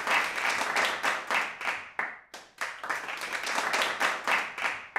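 Crowd applauding, a dense patter of many hands clapping in swells, with a brief dip about two seconds in.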